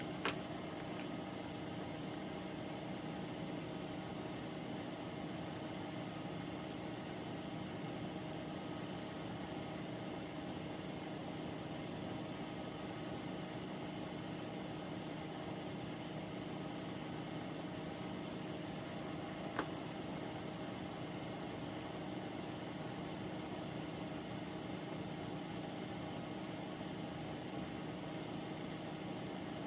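Steady electrical or mechanical background hum, broken by two brief sharp clicks: one just after the start and one about two-thirds of the way through.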